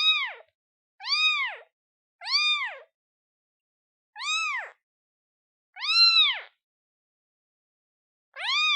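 A day-old newborn kitten meowing to call its mother: six short, high-pitched meows, each rising then falling in pitch. The calls come about one a second with silent gaps, and there is a longer pause before the last one near the end.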